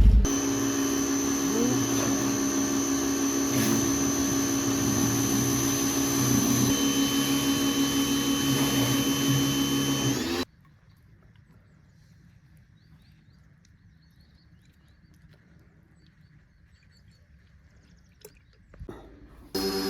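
A motor-driven machine running with a steady, even hum, cutting off suddenly about halfway through. Then it is quiet apart from a few faint clicks.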